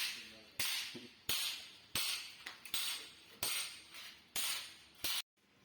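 Hammer striking the sheet-metal body of a motorcycle exhaust: about eight sharp blows at a steady pace, roughly one every 0.7 s, each ringing briefly. The blows are panel-beating dents out of the crushed exhaust. The hammering cuts off abruptly near the end.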